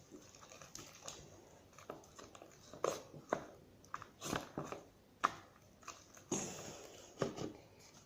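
Homemade glue slime being squeezed and kneaded by hand, giving irregular wet squelches and sticky pops, with a longer squish about six seconds in.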